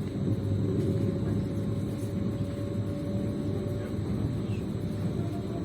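Moving train running: a steady low rumble with a faint steady whine above it.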